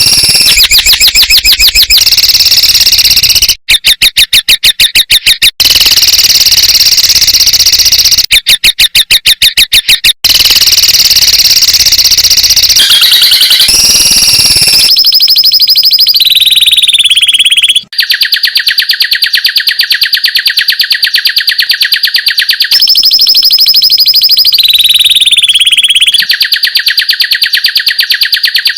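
Bird song of the rapid-fire 'tembakan' type played as a masteran training recording: dense, high, fast-repeated notes in long trills, about ten a second in places, shifting to a new pattern every few seconds.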